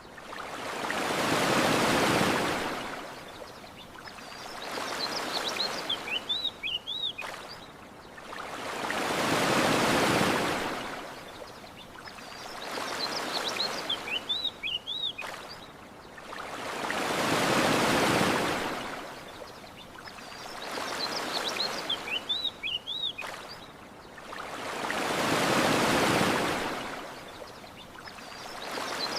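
Ocean waves washing onto a shore, swelling and fading about every four seconds, with every other wave louder. A small bird chirps in short high bursts about every eight seconds between the waves.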